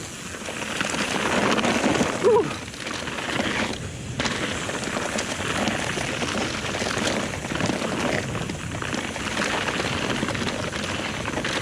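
Mountain bike rolling fast down a dirt trail: tyres crunching and skittering over the ground, frame and chain rattling over bumps, with wind buffeting the helmet-mounted mic. One sharper knock stands out about two seconds in.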